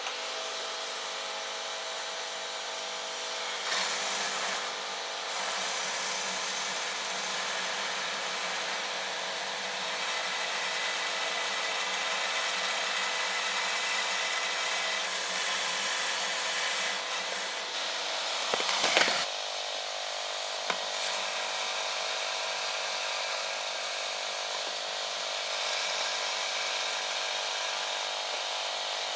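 A motor running steadily, with a short louder burst about two-thirds of the way in.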